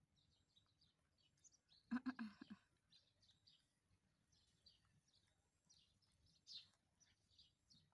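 Near silence with faint small-bird chirps scattered throughout. A brief voice about two seconds in is the loudest sound.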